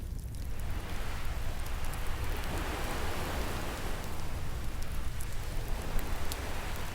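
Ocean surf washing in, a hiss of breaking water that swells after the start and eases off near the end, over a steady low rumble. Scattered sharp crackles and pops of a wood fire sit on top, the loudest pop about six seconds in.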